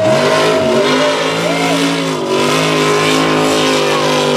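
Mega truck engine running hard. Its pitch wavers early on, then settles to a steady, slightly lower note about two seconds in.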